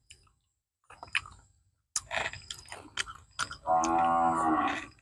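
Close-up wet chewing and lip-smacking of raw shrimp being eaten, with clicks and smacks coming thicker from about two seconds in. Near the end a steady voiced hum of about a second, the loudest sound here.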